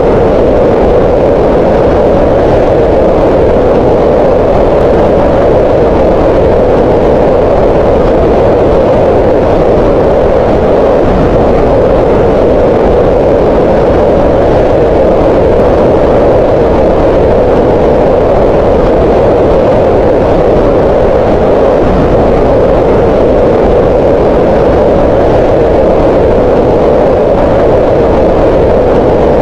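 Green noise: a steady hiss with most of its energy in the mid-range around 500 Hz, unchanging and without breaks.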